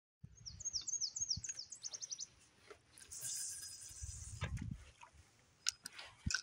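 A small songbird singing a phrase of about ten quick, high notes, each sliding down, that speed up toward the end. It is followed by a brief hiss, a low rumble and a few sharp clicks.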